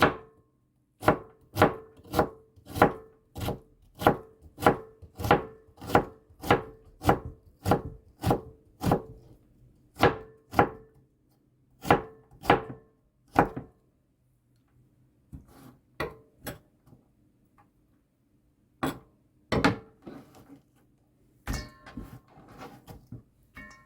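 Knife chopping vegetables on a cutting board: steady, even strokes about two a second, then a pause and a few lighter, irregular cuts near the end.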